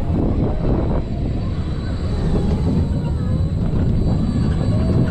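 A small family roller coaster's train running along its track at speed, a steady heavy rumble with wind buffeting the camera's microphone.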